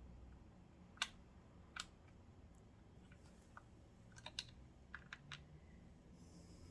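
Sparse light clicks and taps of a tool and small metal parts while a nut is fitted and tightened by feel on the back of a Kenmore sewing machine: one sharper click about a second in, another just after, and a short cluster of small clicks about four to five seconds in, over near silence.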